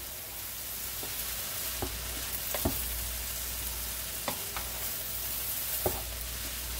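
Rice with peas and carrots frying in a pan, a steady sizzle, as it is stirred with a spatula that scrapes and knocks against the pan a few times.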